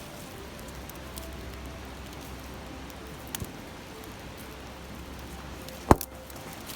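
Wood campfire crackling over the steady murmur of a river. A few faint crackles, then one loud, sharp pop from the burning wood near the end.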